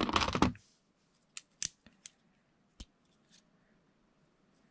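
A short rattle of loose plastic Lego pieces, then five or six separate sharp clicks as bricks are picked up and pressed together.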